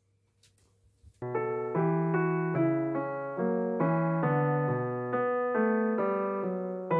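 Background piano music: slow, gently played notes and chords that each fade after being struck, starting about a second in after a moment of near silence.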